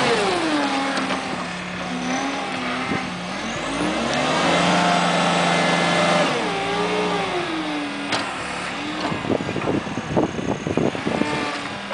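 Skid steer loader engine running and revving up and down as the machine works, its pitch dropping at the start and swelling again around the middle. In the last few seconds a quick run of sharp knocks and clatter joins the engine.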